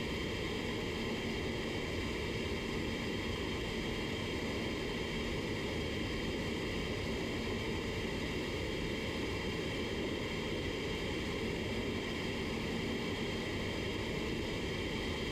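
Steady rushing air with a faint low hum, unchanging throughout: the ventilation of a paint spray booth running during clear-coat spraying.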